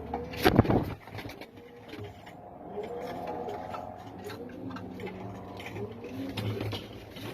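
Domestic pigeons cooing over and over, each coo a short rising-and-falling call, with a loud sudden clatter about half a second in.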